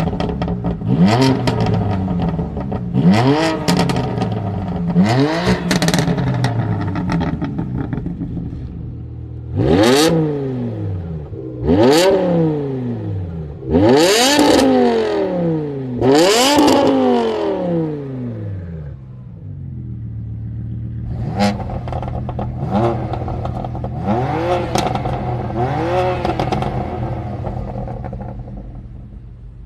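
Car engine being revved in repeated throttle blips: each rev climbs sharply in pitch and falls back. The louder, longer revs come in the middle, and near the end the engine settles into a steady idle with a few lighter blips.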